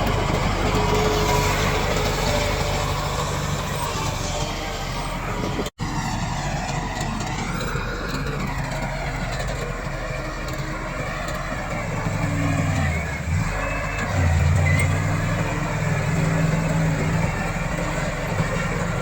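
Komatsu D68 crawler bulldozer's diesel engine running steadily under working load. About two-thirds of the way through, the engine gets louder and its note dips as it lugs harder. There is a split-second dropout in the sound about six seconds in.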